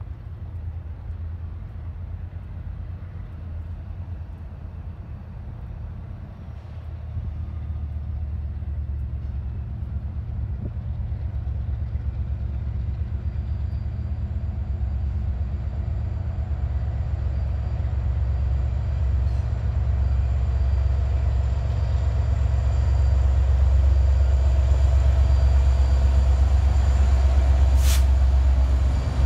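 Norfolk Southern diesel-electric locomotive approaching and rolling onto a steel girder railroad bridge: a low engine rumble that grows steadily louder, with one sharp metallic clank near the end.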